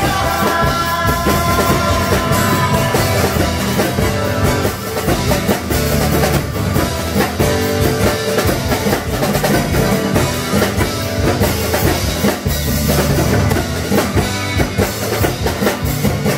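Live band playing loud instrumental rock-style music, led by a drum kit with a steady beat and electric guitar melody.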